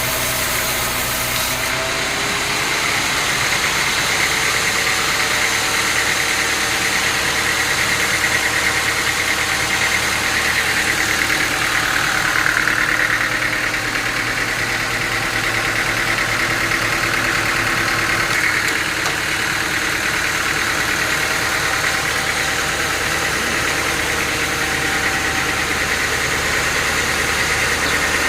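Engine-driven sawmill machinery running steadily, with a higher whine that swells for a few seconds about halfway through.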